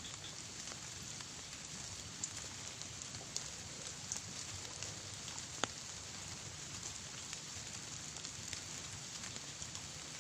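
Light rain pattering steadily, with scattered single drips ticking.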